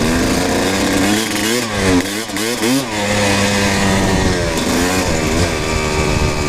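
Kawasaki KX250 dirt bike engine running under way, its revs rising and falling several times in quick succession about two seconds in, then holding steadier.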